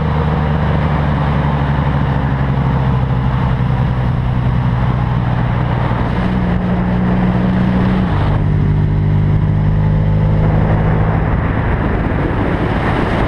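Honda VFR1200F's V4 engine running steadily as the motorcycle is ridden on the road, heard from a camera mounted on the bike with wind rush. Its note drops suddenly to a lower pitch about eight seconds in.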